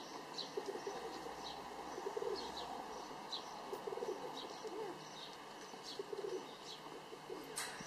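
Pigeon cooing repeatedly in low murmuring calls, with small birds chirping high and briefly in the background. A short click near the end.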